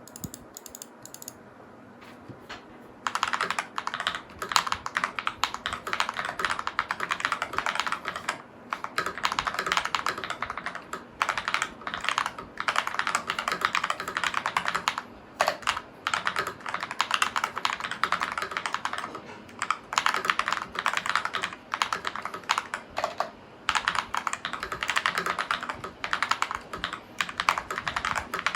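Typing on a Glorious GMMK mechanical keyboard with KTT Kang White linear switches, lubed with Krytox 205g0, with tape and foam mods and GMK-style keycaps. A dense, fast run of keystrokes starts about three seconds in, broken by a couple of short pauses.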